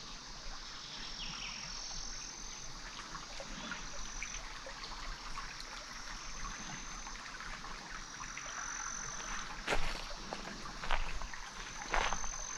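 Insects singing in long, steady high-pitched notes over a hiss of outdoor background, with a few footsteps on the trail near the end.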